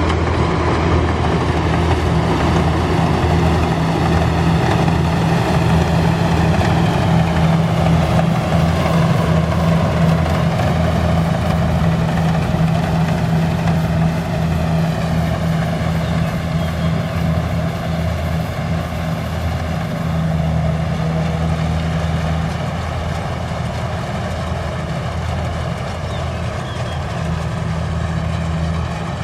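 Kubota rice combine harvester running steadily, a loud, even engine hum with machinery noise over it that eases off a little in the last third.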